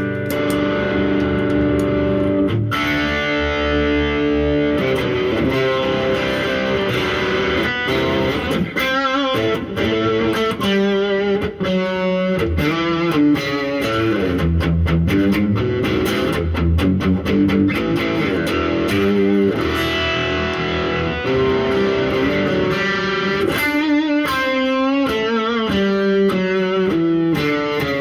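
Electric guitar played through a 1964 Epiphone Pacemaker 10-watt tube amp with a 10-inch Kendrick Black Frame speaker, two overdrive pedals stacked in front for a mildly driven tone at bedroom volume. Held chords at first, then single-note lines with bends and vibrato.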